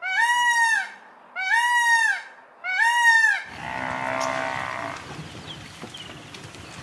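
Indian peafowl (peacock) calling three times in a row: loud, ringing calls of just under a second each, arching up and then down in pitch. About three and a half seconds in they give way to a herd of American bison wading a river: quieter rushing water and a low drawn-out bison call.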